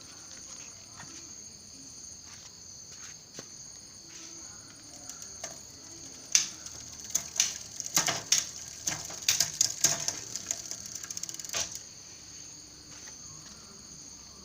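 Bicycle drivetrain being shifted into sixth gear: scattered clicks, then from about six seconds in a few seconds of rapid ticking from the rear freewheel ratchet and chain as the crank is turned. Crickets chirp steadily throughout.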